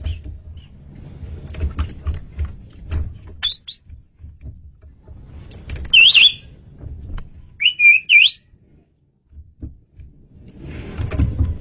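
Asian pied starling (jalak suren) giving a few loud, clear whistled calls with quick up-and-down warbles: a short pair, then one loud call about halfway through and a two-note phrase shortly after. A low, uneven rumble sits under the calls at the start and near the end.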